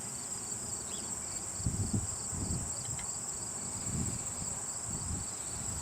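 A steady high-pitched insect chirring, with the low hum of honeybees buzzing in the air after a shaken swarm, swelling a few times.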